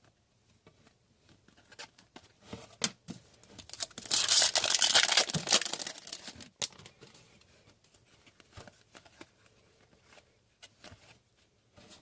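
Upper Deck hockey card pack wrapper torn open: about two seconds of tearing and crinkling, with a few light clicks of cards being handled before and after.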